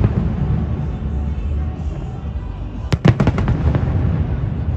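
Fireworks going off: a continuous low rumble of distant bursts, with a quick cluster of sharp bangs and crackles about three seconds in.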